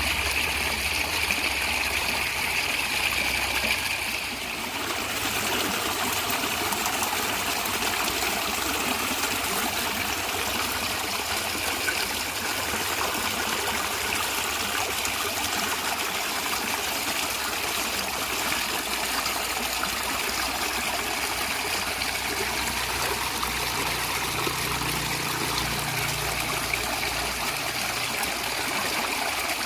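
Natural stream water running and gurgling steadily. About four seconds in, the flow's sound dips briefly and changes slightly in character, then carries on evenly.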